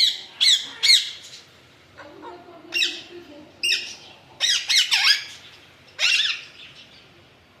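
Alexandrine parakeet squawking: a series of about nine loud, harsh calls, some coming in quick twos and threes, with short quiet gaps between.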